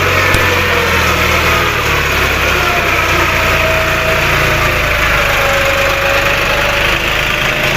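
Tractor's diesel engine running steadily at a low, even speed.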